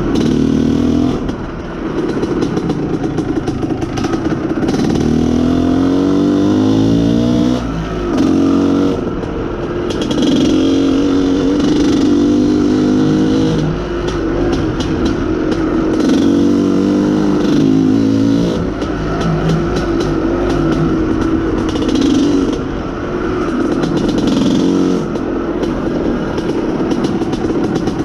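IZh Planeta Sport motorcycle's single-cylinder two-stroke engine running under way. Its pitch climbs for a few seconds about a quarter of the way in, and it eases off briefly several times.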